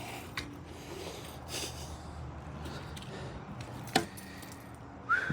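A low steady hum with one sharp knock about four seconds in, and a short rising squeak near the end.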